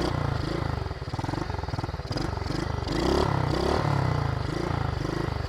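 SSR 110 pit bike's small single-cylinder four-stroke engine revving up and down over and over, the pitch rising and falling in quick pulses as the throttle is worked.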